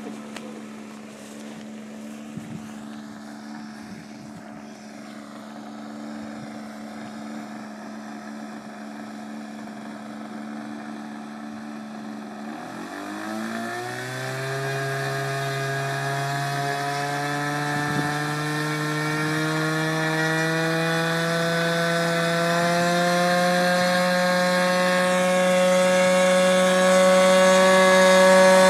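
Glow-fuel model aircraft engine of a radio-control P-51 running steadily, then throttled up about 13 seconds in to a higher, buzzing note that keeps rising slightly in pitch and growing louder to the end as the plane comes closer.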